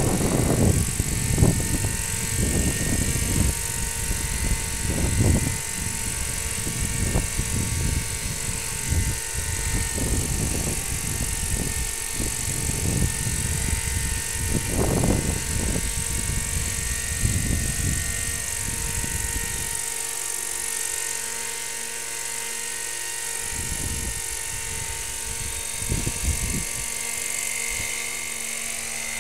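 Small engine of a radio-controlled model aircraft running steadily with a high whine. Wind rumbles on the microphone until about two-thirds of the way through.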